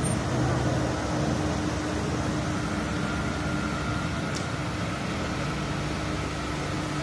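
Small pickup's engine idling as it creeps forward, a steady hum, with a brief click about four seconds in.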